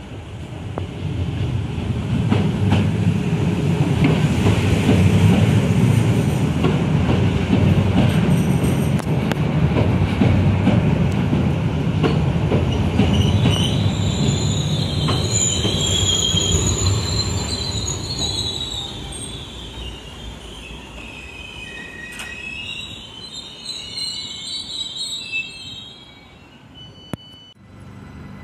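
SBB RABe 522 (Stadler FLIRT) electric multiple unit pulling into the platform: a loud low rumble of wheels and running gear as the cars pass close by. About halfway through, a high-pitched squeal that wavers in pitch sets in as the train brakes. The rumble dies away as it comes to a stop.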